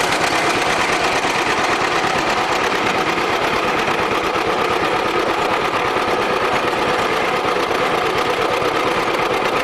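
John Deere tractor engine running steadily under load, driving a stationary hay baler through its power takeoff; a fast, even mechanical beat runs through it.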